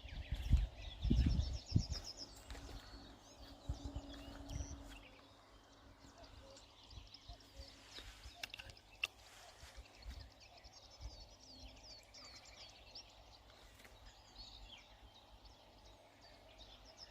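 Small birds singing in repeated high trills over quiet outdoor ambience, with low rumbling gusts on the microphone in the first five seconds and a few faint clicks.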